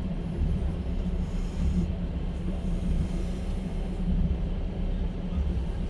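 Interior of a moving Russian passenger train's sleeper carriage: a steady low rumble from the wheels running on the rails.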